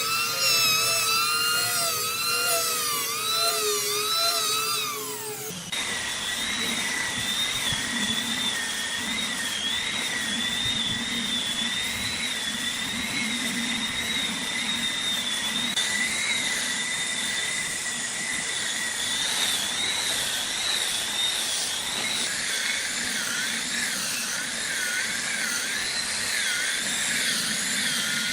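High-speed woodworking power tool whining, its pitch wavering up and down as it cuts into wood. About six seconds in, it changes abruptly to another tool with a higher whine.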